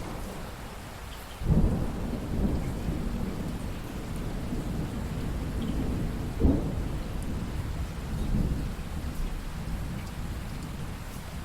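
Steady rain with a long roll of thunder. It breaks in suddenly about a second and a half in, swells again several times, and slowly dies away toward the end.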